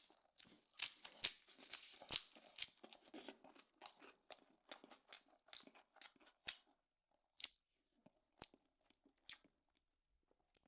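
Faint close-up chewing and mouth sounds of a person eating stew-soaked bread and beef: a dense run of small wet clicks and smacks for about six seconds, thinning to a few scattered ones near the end.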